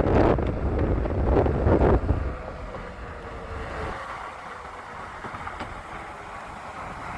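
Wind buffeting the microphone, loud for about the first two seconds, then dropping to a quieter steady rush.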